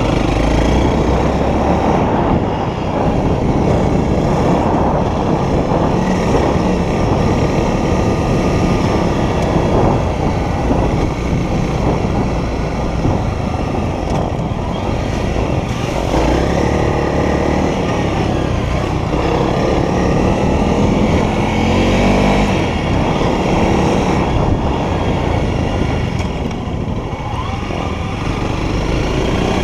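Honda CRF300L's single-cylinder four-stroke engine running on the move, its revs rising and falling a few times with the throttle.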